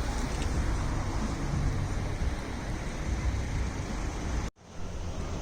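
Boat engine running with a low hum under a steady rush of water and wind noise, broken by a sudden split-second gap about four and a half seconds in.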